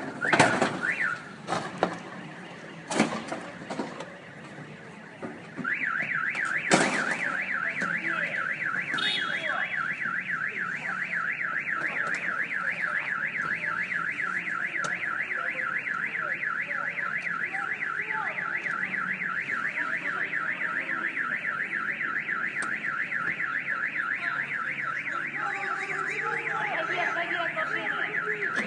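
A few sharp bangs in the first seven seconds. Then, from about six seconds in, an electronic alarm sets off and warbles rapidly up and down without a break, like a car alarm.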